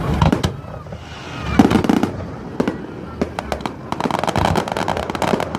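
Aerial fireworks going off: a deep boom of a shell bursting about a second and a half in, then a dense run of sharp crackling pops from about four seconds on.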